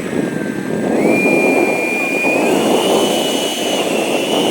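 Twin 70 mm electric ducted fans of an RC model jet running with a high whine over a rushing roar; the whine's pitch steps up about a second in and again a little later as the throttle is advanced.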